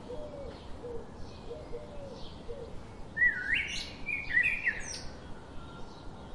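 Birds calling: short low calls repeating over the first couple of seconds, then a louder run of gliding chirps about three to five seconds in.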